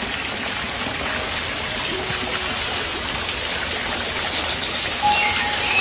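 Garden fountain water splashing and rushing in a steady, even stream.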